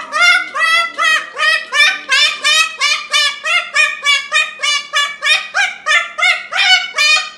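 Cockatiel calling over and over in a rapid run of loud, short calls, about three a second.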